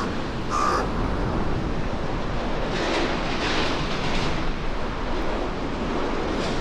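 Steady rushing outdoor noise, with a short bird call about half a second in and a brighter swell of rushing noise about three to four seconds in.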